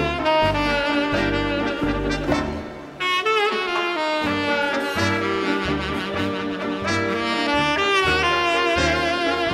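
A live dance orchestra's brass and saxophone section playing a Latin dance number over a rhythmic bass line, with a brief drop in the sound just under three seconds in.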